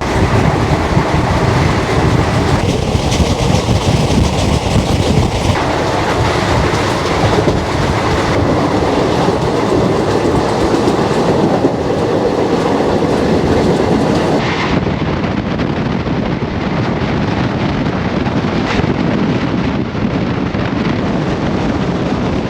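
Passenger train running on the line: a loud, steady rumble and rattle of the coaches' wheels on the rails, with clickety-clack from the track.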